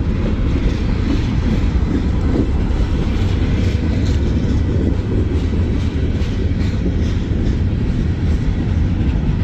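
Freight train running, heard from aboard a car: a loud, steady rumble and rattle of the wheels and cars on the rails.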